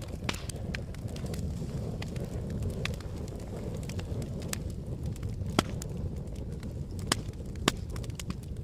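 Campfire burning with a steady low rumble and scattered sharp crackles and pops of burning wood, a few louder pops a little over halfway through and near the end.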